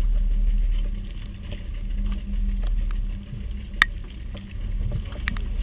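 Small fishing boat's engine running with a steady low drone. There is a single sharp click a little under four seconds in, with a weaker one about a second later.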